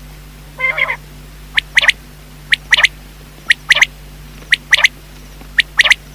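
Common quail calling: a short raspy note, then five rhythmic three-note phrases about one a second, each a single sharp note followed by a quick double note, the 'wet-my-lips' pattern of the species.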